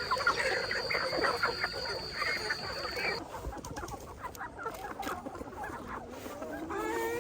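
A flock of chickens clucking, many short overlapping calls, with a steady high-pitched tone under them that stops abruptly about three seconds in. Near the end, one long call rises in pitch.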